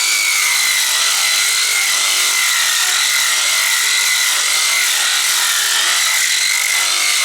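Seven-inch sander polisher with a coarse 24-grit disc sanding bare hardwood deck boards. The motor gives a loud, steady high whine that wavers slightly in pitch as the disc works against the wood, over the rasp of the abrasive.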